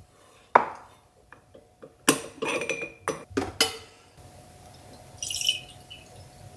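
Kitchenware clinking and knocking: a sharp knock about half a second in, then a quick cluster of clinks and knocks, and a brief hiss near the end.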